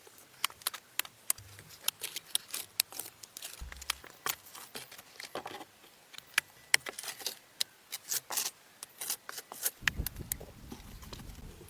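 Irregular sharp clicks and snaps, several a second, with a low rumble coming in near the end.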